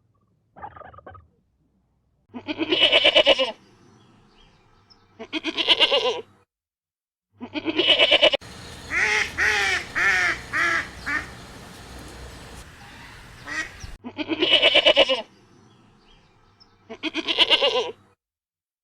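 Waterfowl calling: loud calls about a second long, coming in pairs, with a quick run of about five shorter calls near the middle.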